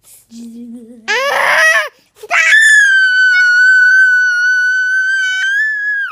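A young girl screaming: a short shriek about a second in, then one long, steady, high-pitched scream held for over three seconds that cuts off sharply.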